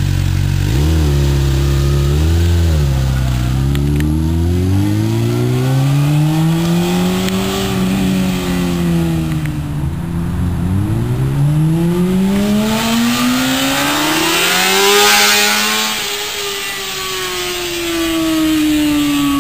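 2007 Honda CBR600RR inline-four sportbike engine through its exhaust: two quick revs from idle, then long sweeps of revs rising and falling. It is loudest about fifteen seconds in, and after that the pitch drops steadily.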